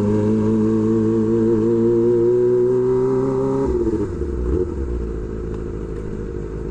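Kawasaki Ninja ZX-25R's 250 cc inline-four engine running through an SC Project exhaust. It holds a steady note for about three and a half seconds, then drops to a lower, uneven note as the throttle closes, with a brief blip of throttle soon after.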